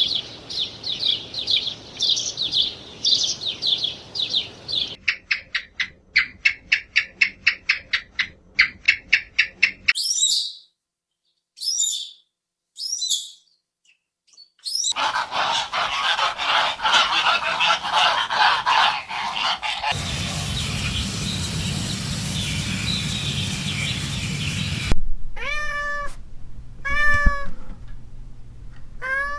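A run of different animal sound clips one after another: fast repeated high chirping calls, then a rapid even pulsing call, a few short high calls, a long dense noisy stretch, and near the end a cat meowing three times.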